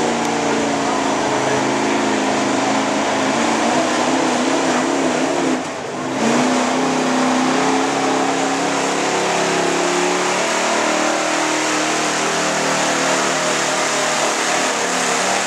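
Modified gasoline engine of a 4x4 pulling truck running at high revs under load, its note wavering. About six seconds in the revs drop briefly, then climb back.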